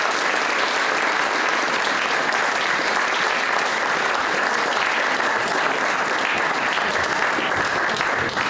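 Audience applauding steadily, a dense even clapping that holds at full strength throughout.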